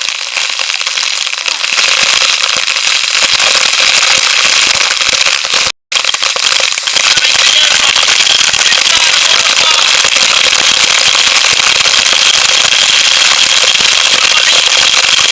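Waterfall water pounding directly on the camera and its microphone: a loud, dense crackling spatter of falling water. It cuts out completely for a moment about six seconds in, then carries on as before.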